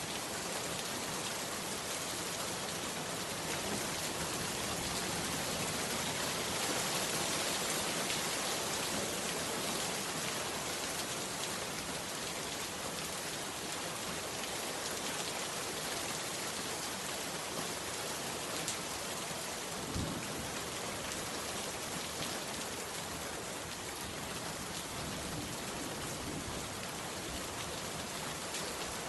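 Heavy rain falling steadily, a dense, even hiss of drops. One brief soft thump about two-thirds of the way through.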